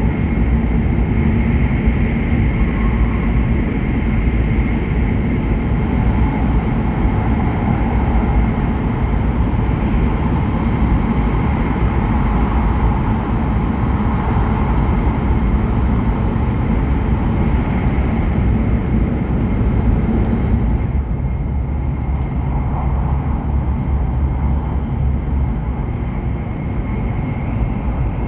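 Steady running noise of an E7/W7-series Hokuriku Shinkansen train at speed, heard inside the passenger cabin: a deep rumble with a faint whine above it. About two-thirds of the way through the higher part of the noise drops away and the sound becomes a little quieter.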